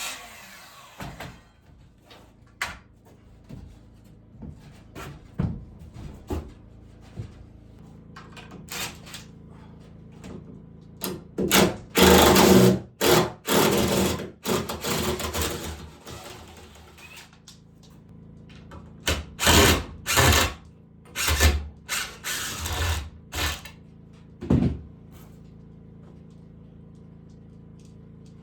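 Power drill running in short bursts, stopping and starting, during woodworking. The bursts come in two clusters, the first about 11 seconds in and the second about 19 seconds in, with a few single ones before them.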